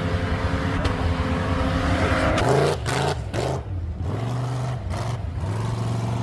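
Off-road 4x4 engine running hard under load, then revving up and down in several surges from about two and a half seconds in, the pitch rising, holding and dropping back.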